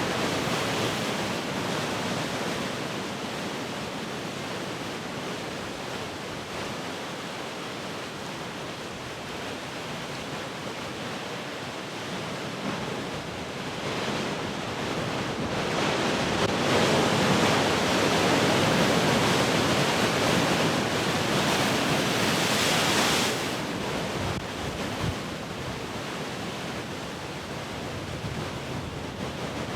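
Large ocean waves breaking and rushing up the shore, with wind. The surf swells to a loud crash and wash in the middle of the stretch, then drops off suddenly.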